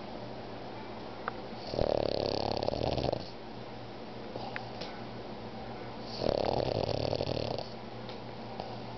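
A pug snoring in its sleep: two long snores about four seconds apart, each lasting about a second and a half.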